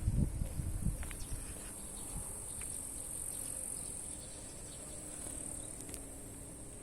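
Insects chirring in a steady high-pitched drone. A few dull low thumps in the first second.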